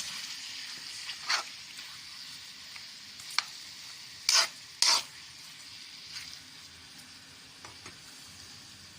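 Food sizzling in a frying pan while being stirred, with a few sharp scrapes of the utensil against the pan; the two loudest come about four and five seconds in. The sizzle slowly grows quieter.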